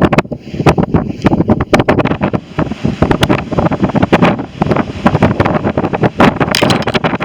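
Strong hurricane wind buffeting the microphone, loud and gusty, with constant crackling blasts.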